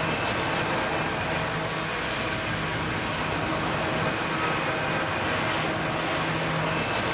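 Pacific National diesel container freight train running past: a steady locomotive engine hum over constant rolling noise from the wagons on the rails.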